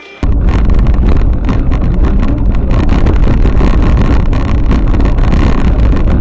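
Loud, steady rumble of a vehicle on the move, with wind buffeting and crackling on the dashcam microphone; it cuts in abruptly just after the start.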